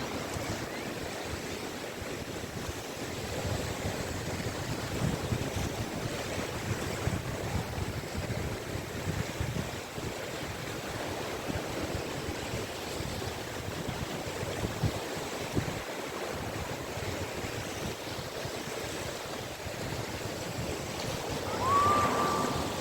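Caspian Sea waves washing onto the beach, a steady surf noise that swells and eases. Near the end a short high tone rises briefly and holds for about a second.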